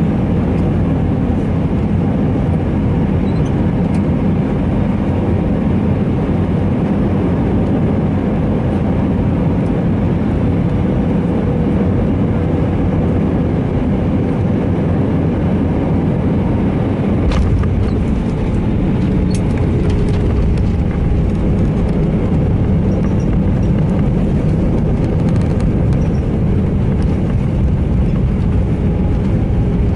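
Steady rumble of an Airbus A319 cabin on approach and landing, from the engines and the airflow. A little past halfway the low rumble shifts and a few sharp knocks sound.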